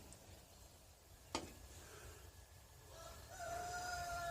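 A rooster crowing faintly, one long held call that drops in pitch at its end. A single sharp click comes about a second in.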